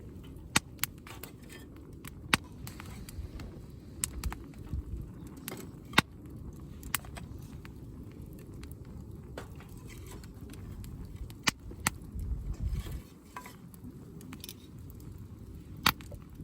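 Wood campfire crackling, with sharp irregular pops every second or few over a steady low rumble.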